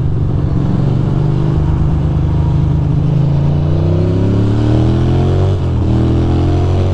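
2006 Ducati Monster 620's air-cooled V-twin engine running under way, its revs climbing from about three seconds in, with a brief dip in revs near the end before it pulls again.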